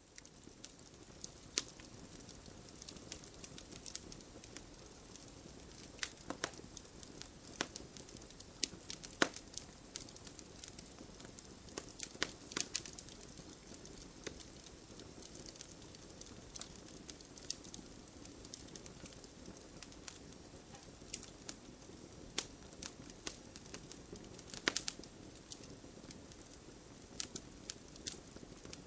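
Wood fire crackling in a fireplace: irregular sharp pops and snaps over a steady low hiss of burning logs.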